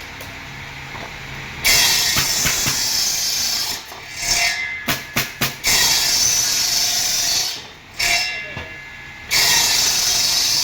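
Tool working wood with a loud, rasping noise in long stretches. It starts about a second and a half in, drops briefly twice, and has a few short sharp bursts near the middle.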